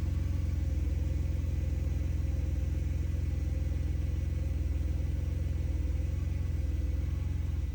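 Mercedes-Benz 300E's straight-six engine running steadily with a low, even rumble after its fuel pumps and filter have been replaced.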